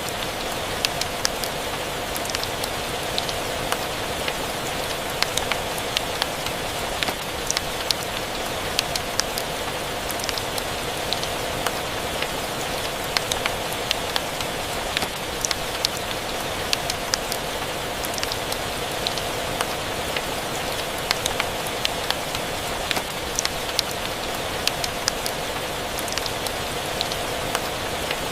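Steady rain falling with a wood fire crackling: an even hiss of rain, with frequent sharp, irregular pops and clicks from the fire.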